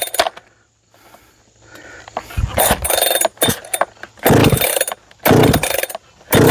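Large two-stroke professional chainsaw being pull-started: several short bursts of the engine firing with pauses between, then it catches and runs steadily near the end.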